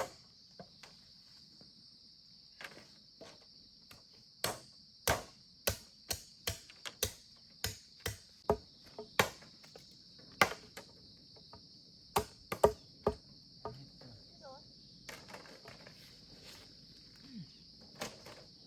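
A run of sharp, irregular knocks, like hand tools striking, coming about one to two a second and densest through the middle, over the steady high chirring of insects.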